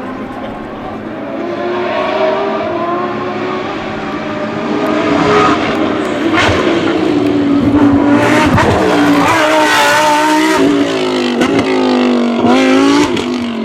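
Lamborghini Huracán Super Trofeo's naturally aspirated V10 accelerating hard up the hill. The pitch climbs and drops back at each upshift, several times in quick succession, and the sound grows louder as the car comes closer.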